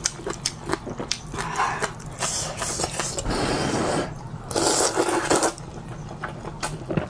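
Close-miked eating of noodles in broth: three long slurps about two, three and a half and five seconds in, between small wet chewing clicks.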